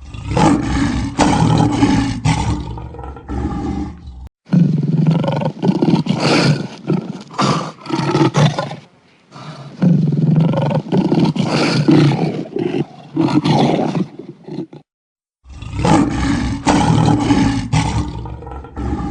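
A large animal giving loud, low calls in long bouts, cut off abruptly about four seconds in and again near fifteen seconds, where the clips are edited together.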